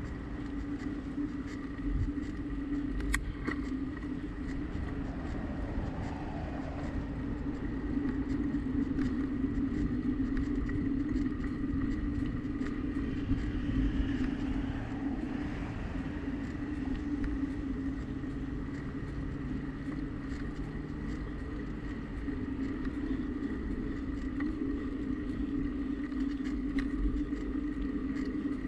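Steady road noise of a bicycle ride: tyre and wind rumble on the action camera's microphone, with a constant hum. Fainter traffic noise swells and fades a few times.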